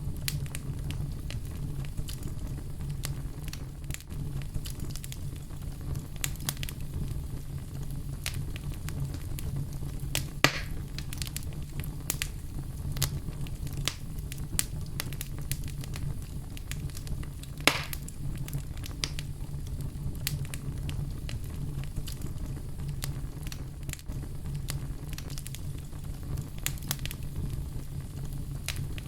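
Fire burning in a fireplace: a steady low rumble under frequent small crackles, with two louder pops, about ten seconds in and again near eighteen seconds in.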